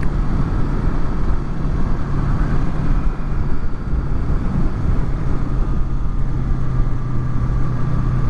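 Honda VFR800's V4 engine running at a steady cruise under a heavy rush of wind noise, recorded by helmet-mounted microphones under furry windshields.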